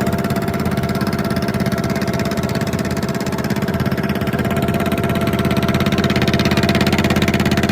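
A fishing boat's engine running steadily with a fast, even chugging, getting slightly louder after about five seconds.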